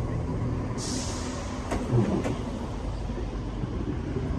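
Diesel multiple-unit train's engines running with a steady low drone at the platform. A short hiss of air comes about a second in, and faint clicks follow.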